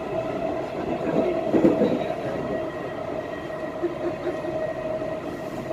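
Dubai Metro train running between stations, heard from inside the carriage: a steady rumble of wheels on the rails with a steady whine, a little louder about a second in.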